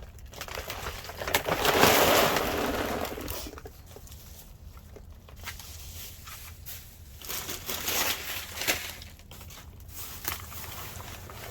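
Trash in a dumpster being shifted and crushed: packaging and bags crunching and rustling, loudest for about two seconds starting a second in, then lighter rustles and knocks.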